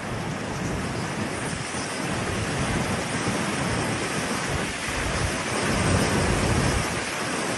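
Hurricane-force wind howling with driving rain, the gusts rumbling on the microphone in a steady rush that swells slightly about six seconds in.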